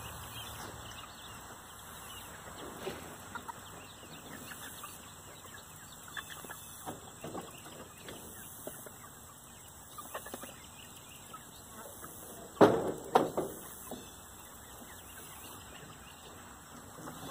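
Chickens clucking, with short scattered calls throughout. Two louder, sharper sounds come in quick succession about two-thirds of the way in.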